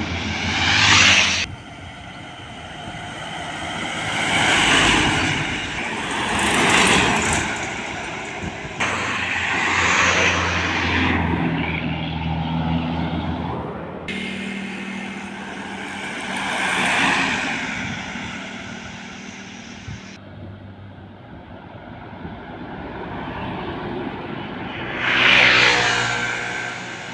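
Heavy trucks and other motor vehicles driving past on a road one after another, each one's engine and tyre noise swelling and fading away, with a low engine hum between passes.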